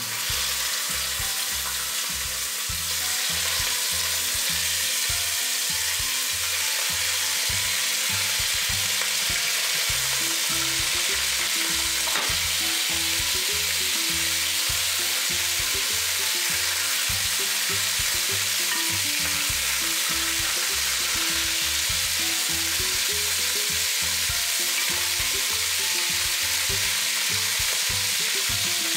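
Pork cheeks sizzling in hot oil in a pot as they brown, a steady frying hiss that builds over the first few seconds as the pieces go in and then holds.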